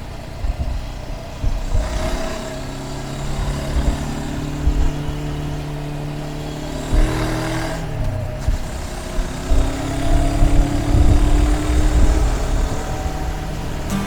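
Honda CB500X's parallel-twin engine running under way, recorded on the bike with wind noise on the microphone; the engine note dips about eight seconds in, then rises again.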